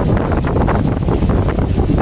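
Wind buffeting the microphone aboard an open canal tour boat: a loud, uneven low rumble that flutters with the gusts.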